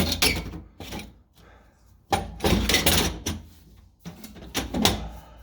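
Metal catback exhaust piping clanking and scraping against the car's underside as it is twisted and pushed around to get it out, in three bursts of knocks and scrapes: at the start, about two seconds in, and near the end.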